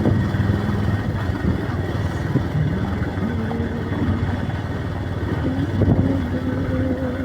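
Motorcycle engine running while riding, its pitch shifting up and down with the throttle, over a steady rushing noise.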